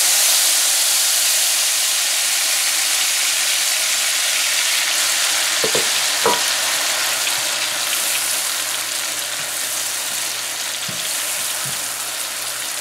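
Wet curry paste of onion, garlic, tomato and spices sizzling loudly in hot oil in a wok just after it goes in, stirred with a silicone spatula. The sizzle eases slowly, with a couple of brief knocks about halfway through.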